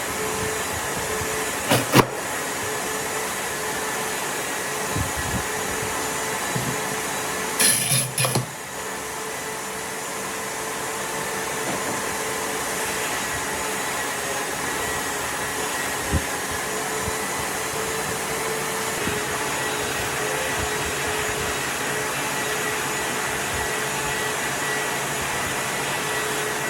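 A power tool or motor-driven machine running steadily, with a faint steady whine. Sharp knocks break in about two seconds in, and again as a short cluster around eight seconds in.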